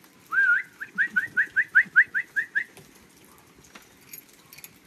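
A songbird singing: one slurred whistle, then a quick run of about ten short, rising whistled notes, about five a second, ending just under three seconds in.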